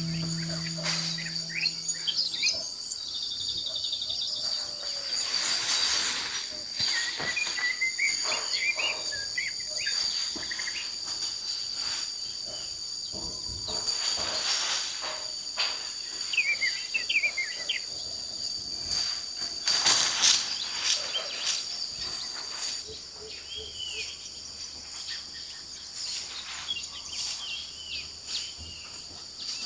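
Insects droning steadily at a high pitch, with birds chirping now and then. There are a few longer swells of rustling noise.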